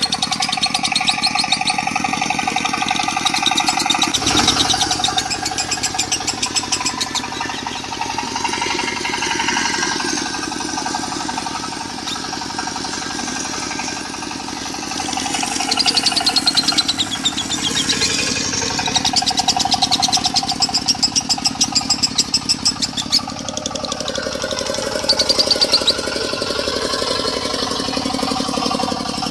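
Lovebird singing in the fast, rattling 'konslet' style, long rapid trills that come and go, over a diesel engine running steadily.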